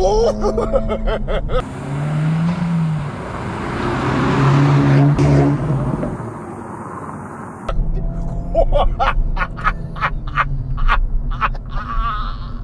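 2024 Acura Integra Type S, with its 2.0-litre turbocharged four-cylinder breathing through a triple exhaust that has no rear resonators, accelerating hard and passing close by. It is loudest in the middle as it goes past, then fades. Before and after the pass, the same engine is heard pulling from inside the cabin.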